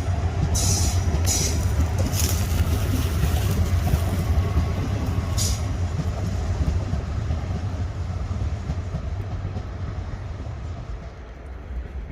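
A train passing with a low rumble that fades toward the end, with several short sharp clattering noises in the first half.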